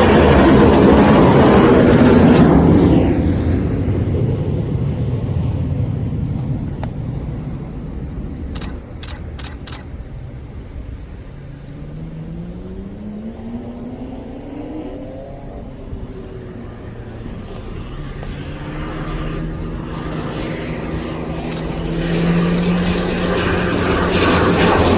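Kawasaki T-4 jet trainers landing in turn, their twin turbofans heard passing. The jet noise fades over the first few seconds, a quieter whine rises in pitch in the middle, and the next jet's engines grow loud again toward the end.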